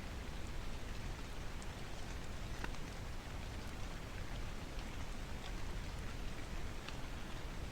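Steady rain with a wood fire crackling: an even hiss with scattered small pops.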